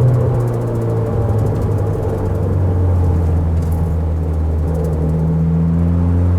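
Car engine and road noise from inside the cabin while driving. The engine note drops at the start, then climbs slowly as the car gathers speed.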